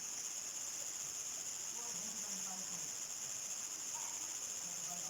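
Crickets chirping in a dense, steady, high-pitched chorus.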